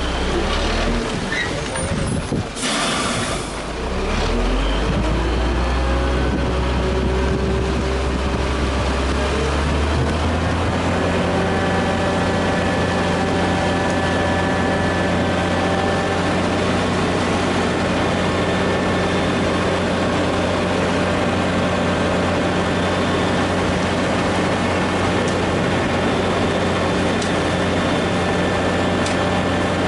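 Heavy diesel engine on a road-construction site. A short hiss of air comes a few seconds in, then the engine speeds up with a rising pitch over several seconds and settles into a steady high run.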